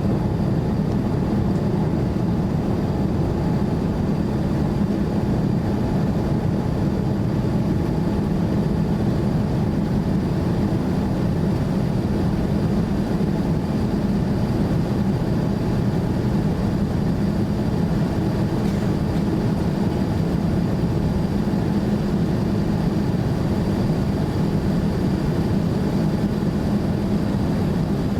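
Steady drone of engines and rushing air inside the cabin of a Boeing 787-9 in flight.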